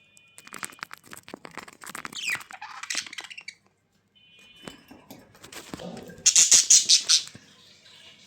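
Small birds calling with short high chirps and a falling squeak, amid scratching and rustling, with a loud burst of rapid rustling about six seconds in.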